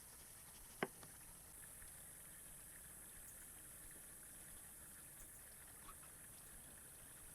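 Near silence: a faint steady hiss, with one sharp click just under a second in and a few faint ticks after it.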